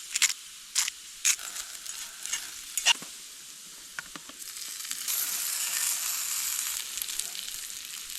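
Meat sizzling in a frying pan over a campfire: a steady hiss with sharp pops of spitting fat in the first few seconds, the sizzle growing louder about five seconds in.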